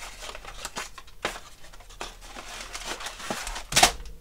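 Hands handling a small plastic scale model kit's box and parts: light rustling and scattered clicks, with a sharper knock about a second in and the loudest knock near the end.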